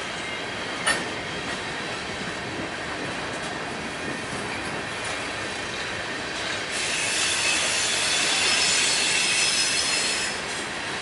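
A CSX freight train of covered hopper cars rolling past at close range: a steady rumble of steel wheels on rail, with one sharp metallic clank about a second in. From about seven seconds to ten seconds a high-pitched wheel squeal rises over it, then fades back to the rolling noise.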